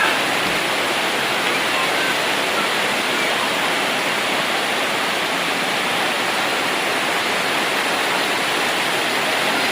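Heavy rain pouring down, a steady, even rushing noise with no breaks, as the downpour floods the streets and yards.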